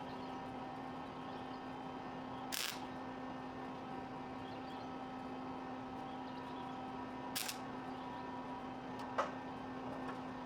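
A steady low hum broken by three brief sharp bursts, the first two a fraction of a second long: short MIG tack welds fixing a repaired frame horn back onto a car frame.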